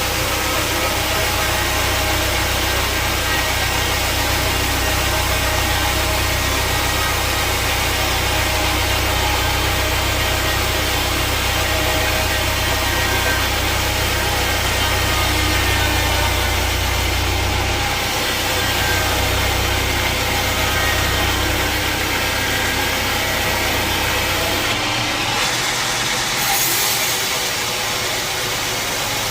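Sawmill saw machinery running steadily, a continuous mechanical drone with a deep hum underneath. The deep hum drops away about 25 seconds in, with a brief brighter hiss just after.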